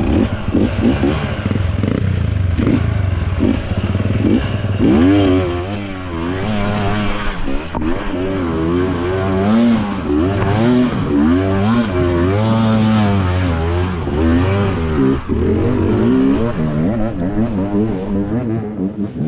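Enduro dirt bike engine revving up and down again and again as the throttle is worked, with knocks and clatter in the first few seconds.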